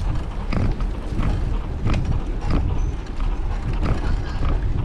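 Bicycle riding along a path, rattling and clicking irregularly over bumps, with a steady low rumble of wind on the microphone.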